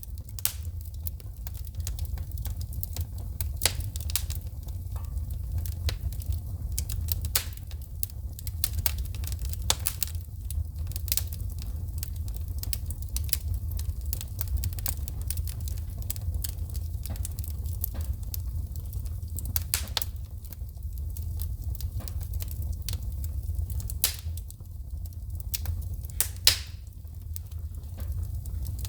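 Wood fire burning in a fireplace, crackling with frequent irregular pops and snaps of sparks shooting from the logs, over a steady low rumble of the flames.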